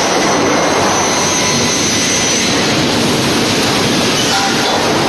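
Industrial sawmill line running: a loud, steady machinery din with a few faint high tones through it.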